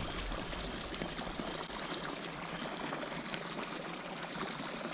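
Water pouring steadily into a pond at the inflow where fresh water is pumped in, a continuous rushing.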